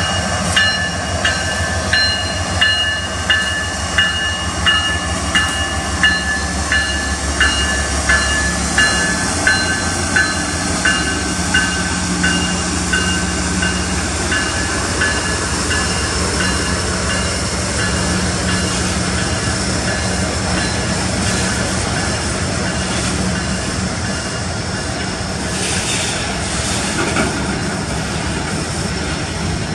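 A GE ET44AC diesel locomotive passes close by with a deep engine rumble, followed by autorack cars rolling past with steady wheel-on-rail noise. A bell rings in an even beat over the first half, about three strokes every two seconds, fading away about halfway through.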